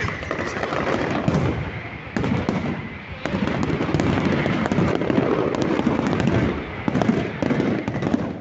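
Fireworks going off in a dense, continuous barrage of bangs and crackles, growing louder in sudden jumps about two and three seconds in.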